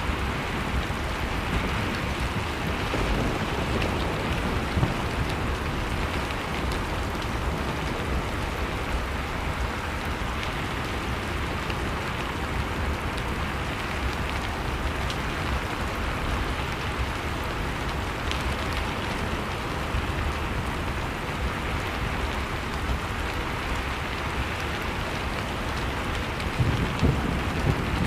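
Blizzard wind as a steady, unbroken rush, with a wood fire crackling in small scattered pops over it. A louder low surge of wind comes near the end.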